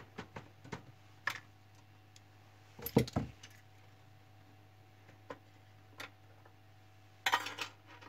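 Sharp plastic clicks and knocks from the opened printer's pickup mechanism being handled by hand around its loose solenoid. There are a few light clicks at first, a louder knock about three seconds in, two single clicks later, and a short rattling clatter near the end.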